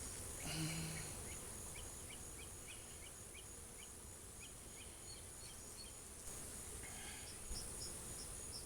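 Faint insect sounds around an open beehive: a steady high-pitched drone, with short chirps repeating several times a second and a brief louder sound about a second in.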